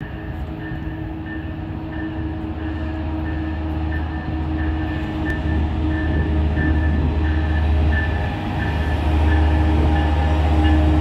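Metrolink diesel locomotive hauling bilevel passenger cars into the station, its engine drone growing louder as it approaches and passes. A short high note repeats about twice a second over the engine.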